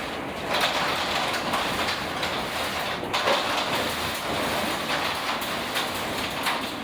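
Hurricane Ian's wind and rain, a dense rushing noise that swells about half a second in and rises and falls in gusts, with a few short knocks or rattles.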